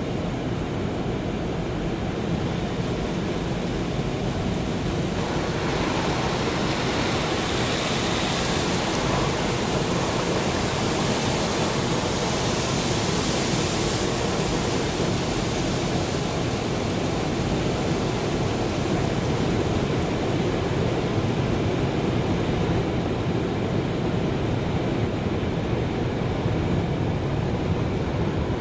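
Automatic car wash running: a steady rushing of water spray or air, which grows fuller and hissier about five seconds in.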